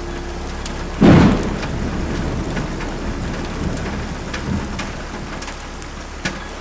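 Thunderstorm: a loud clap of thunder about a second in, then steady heavy rain with scattered drops hitting.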